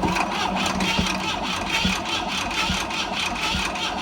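Boat engine turning over on its electric starter motor, a continuous rapid rhythmic cranking chug. The engine had been seized with rust in the cylinders and, freed by hand, now spins over freely.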